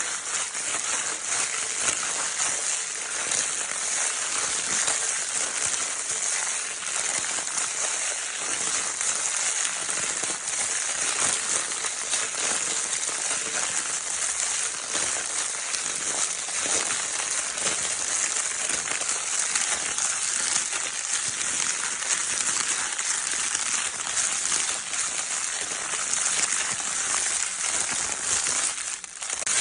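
Crinkle paper of a baby's crinkle toy being crinkled continuously, a dense, steady crackling rustle.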